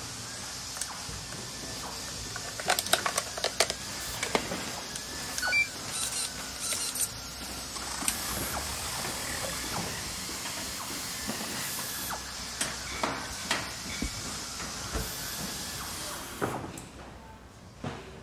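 Small electric steering servo of a radio-controlled crawler whirring in short spells as the front wheels are turned, mixed with sharp plastic clicks and handling noise over a steady hiss.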